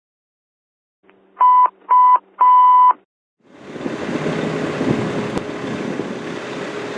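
Three electronic alert beeps, two short and one long, over a low hum, then after a short gap a fire engine's diesel engine running steadily.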